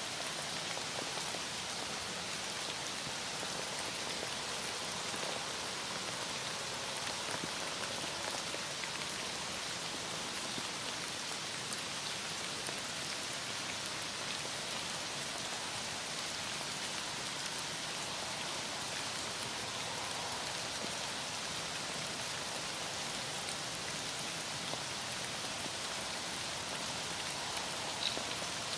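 Heavy rain falling steadily, an even hiss of drops with no let-up, and one small tick near the end.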